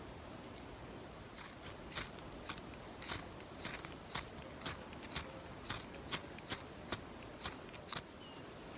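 Fire steel scraped repeatedly with a striker, about two short rasping strokes a second, throwing sparks to try to light tinder for a campfire.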